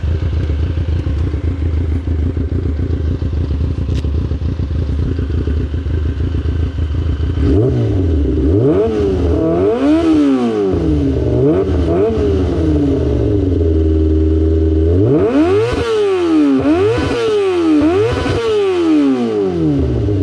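2003 Yamaha R6's 600 cc inline-four with an SC-Project exhaust running steadily, then revved up and down in quick sweeps, one run of revs about eight seconds in and another about fifteen seconds in.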